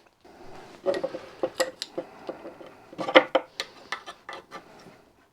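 Metal clinks and clicks as a brass pipe union is handled, screwed in and tightened with a spanner to make a pressure-tight joint. The taps come in an irregular string, with the loudest cluster about three seconds in.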